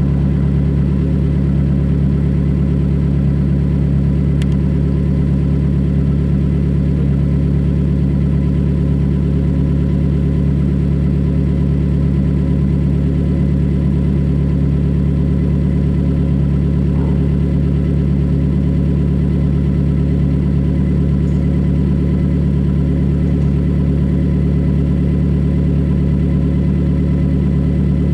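2020 Toyota Corolla LE's four-cylinder engine idling steadily through a straight-piped exhaust, a constant low drone with no revs.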